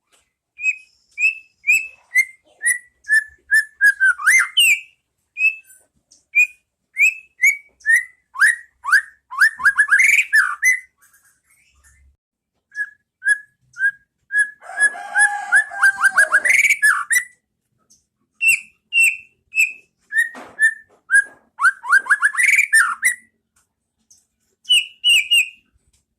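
White-rumped shama (murai batu) singing. Its phrases are runs of short, clear whistled notes, each sliding down in pitch. Several denser, faster runs come along the way, with brief pauses between phrases.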